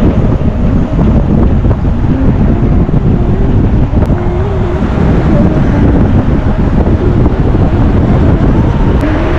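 Wind buffeting the microphone of a moving motorcycle, with the bike's engine running underneath in a steady loud roar.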